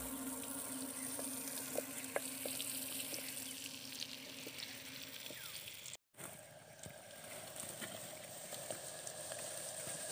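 Garlic, onion and green chillies frying in hot oil in a clay pot: a steady sizzle with small pops and crackles. The sound breaks off briefly about six seconds in.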